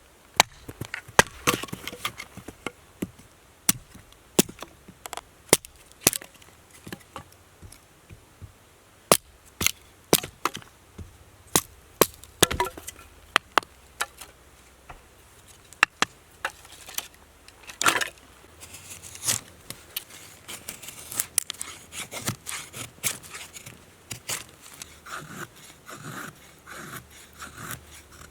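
Irregular sharp wooden cracks and knocks, some close together and some a second or more apart, with a run of quicker, softer strokes near the end.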